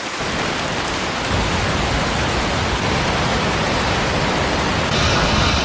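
Steady rushing noise of heavy rain, with a deeper rumble joining just over a second in and a sudden louder, brighter change near the end.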